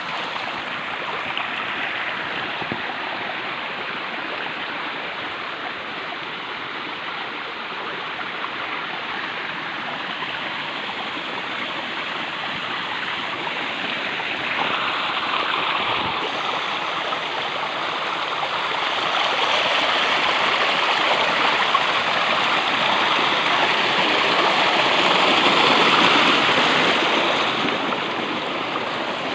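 Rushing water of a stream flowing over rocks, a steady hiss and gurgle that grows louder partway through.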